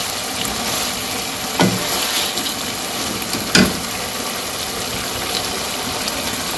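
Fish pieces sizzling in spiced masala in a pan, stirred with a wooden spatula, with two knocks about two seconds apart.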